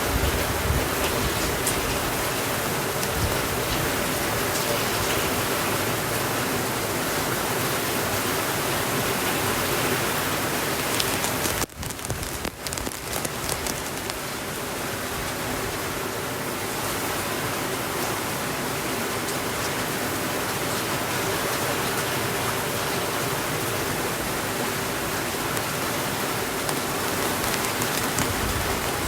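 Steady, heavy rainfall: a dense, even hiss of rain on surfaces. It dips and wavers briefly about twelve seconds in, then carries on.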